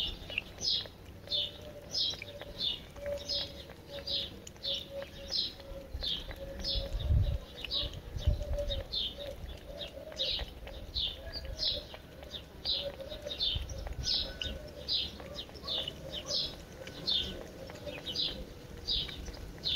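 Outdoor birdsong: a small bird chirping over and over at an even pace, a little less than twice a second, with a dove cooing low and faint behind it.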